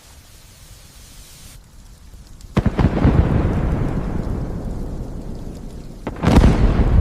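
Light steady rain hiss, then about two and a half seconds in a sudden loud thunderclap that rumbles and slowly fades. A second loud clap near the end cuts off abruptly.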